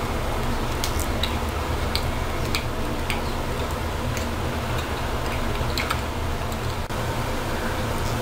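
Eating sounds from biting and chewing a sticky glazed pecan roll: scattered soft clicks and smacks of the mouth, over a steady low hum.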